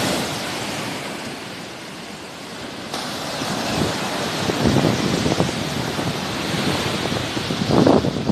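Sea waves washing on the shore in a steady rush that swells and eases, with gusts of wind buffeting the microphone. There is a brief click about three seconds in.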